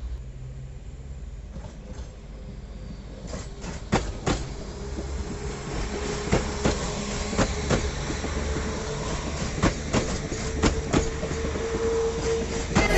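A train running slowly through the station, its wheels clicking over rail joints, often in quick pairs, over a low rumble that grows louder as it comes closer.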